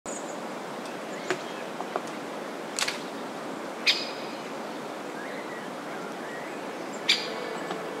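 Outdoor wilderness ambience: a steady soft hiss of open air, with a handful of short, sharp bird calls scattered through it, the loudest near the middle and again near the end.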